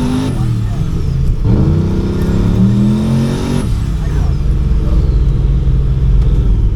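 Turbocharged LS V8 race car pulling hard under boost, its pitch climbing twice and each time breaking off suddenly as it falls on its face, with a high turbo whistle rising then falling. The breaks are the ignition-cut boost safety firing at about 18 PSI: a failed wastegate dome pressure sensor let boost overshoot.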